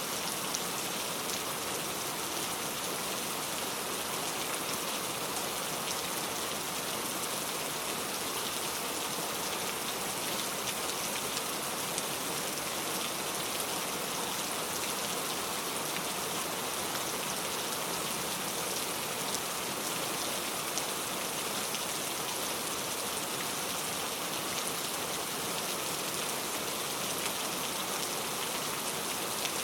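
Steady rain falling: an even hiss with a scattering of small drop ticks, unchanging throughout.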